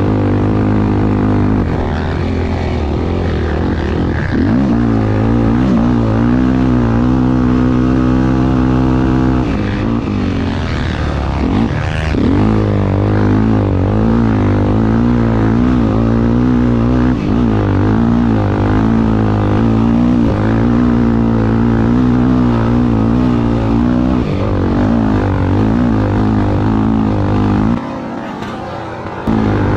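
Single-cylinder four-stroke dirt-bike engine (Honda XR250 Tornado) running hard under load, its note wavering up and down as the throttle is worked. The engine drops away briefly near the end, then picks up again.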